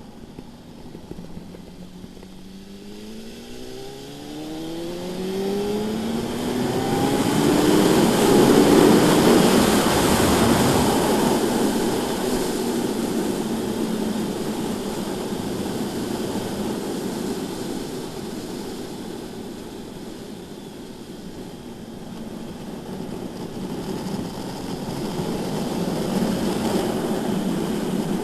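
BMW S1000RR inline-four engine accelerating hard, its pitch climbing through the revs, with wind rush over the microphone building to its loudest about eight seconds in and easing to a steady rush of engine and wind. Near the end the engine pulls harder again.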